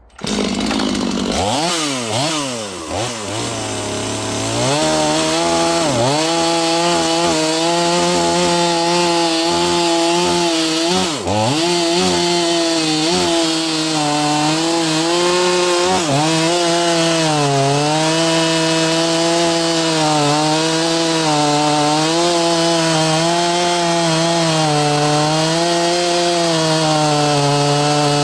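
Neotec NS846 45.4cc two-stroke chainsaw revving up and down over the first few seconds, then held at high throttle under load cutting into an oversized log, its pitch wavering slightly and dipping briefly about eleven seconds in.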